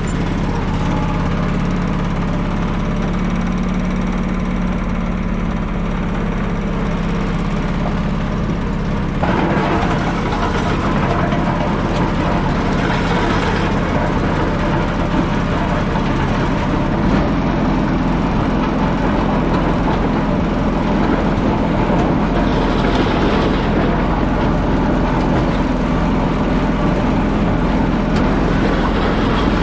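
Steady vehicle engine and road noise, a continuous low hum that grows fuller about nine seconds in.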